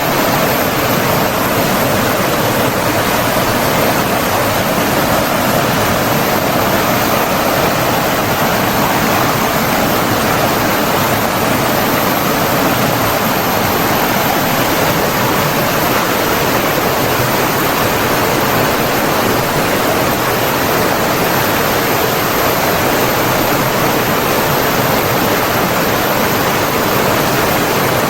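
Running water rushing steadily, like a stream or small waterfall: an even, unbroken wash of sound with no changes.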